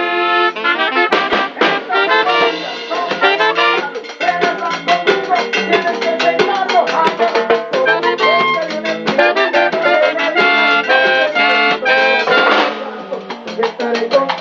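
Band playing an instrumental break of a Latin tropical dance song: brass, trumpets to the fore, carrying the melody over drums and percussion.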